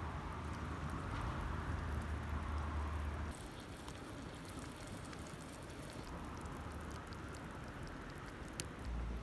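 Open campfire under a mess tin: a steady hiss with scattered small crackles and pops, and a low rumble during the first three seconds.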